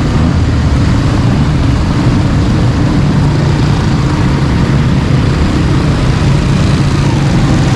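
A vehicle engine running steadily at close range, a continuous low hum.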